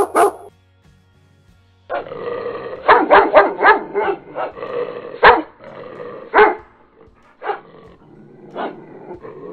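A dog barking: a short bark at the start, then after a brief pause a quick run of barks lasting several seconds, then a few single barks spaced about a second apart near the end.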